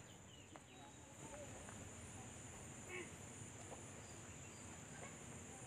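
Faint outdoor ambience: a steady high-pitched cricket drone, with a few faint short chirps from distant birds.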